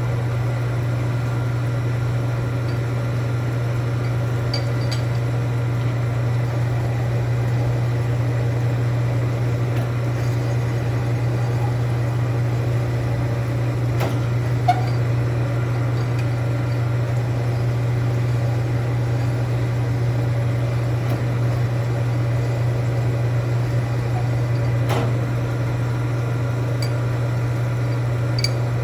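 Steady low machine hum, with a few light clicks and taps now and then, the sharpest about halfway through.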